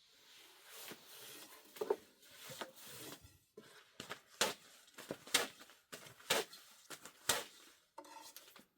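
Kitchenware being handled: a series of sharp clinks and knocks, roughly one a second, with rustling and scraping between them.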